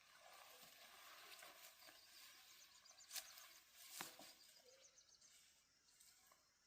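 Near silence: faint outdoor rural ambience with two brief clicks or snaps a little under a second apart, midway through.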